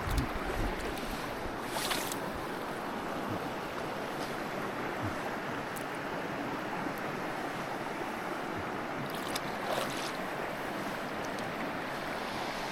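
Mountain stream water rushing steadily over rocks, with a few faint clicks about two seconds in and again near ten seconds.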